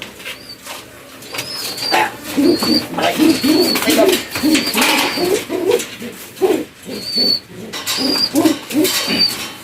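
Racing pigeons cooing, a run of short low coos starting about two seconds in and going on nearly to the end.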